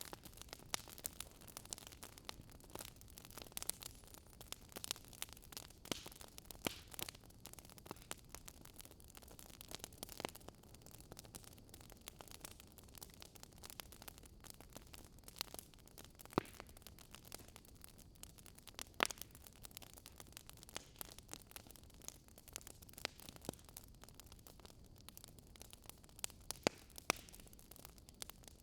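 Wood fire crackling in a fireplace: irregular sharp pops and snaps over a soft low hiss, busier in the first few seconds and sparser after, with a few louder pops.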